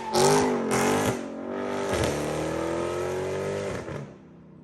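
Modified Chevrolet Camaro ZL1 1LE's supercharged 6.2 L V8 being revved hard: two quick surges of revs in the first second, then a steady climb in revs that stops suddenly about four seconds in.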